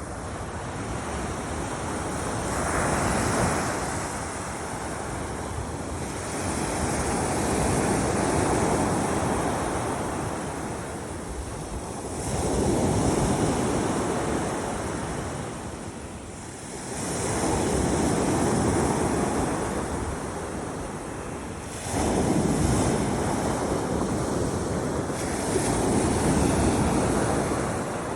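Sea waves breaking on a beach, the surf swelling and washing in about every four to five seconds, with wind buffeting the microphone.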